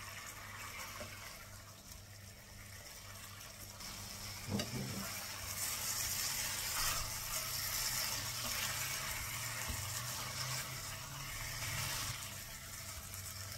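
Beef seekh kababs frying in tomato masala in a pan, a steady sizzle as a spatula stirs them, growing louder about five seconds in. A soft knock about four and a half seconds in.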